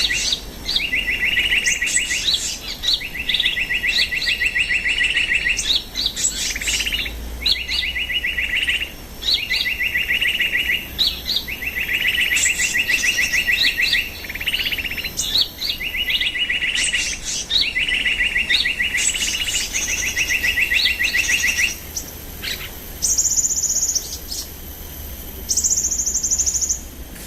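Birds calling: rapid trilling phrases, each about a second long, repeated with short gaps and interspersed with sharp high chips. In the last few seconds higher-pitched trills take over.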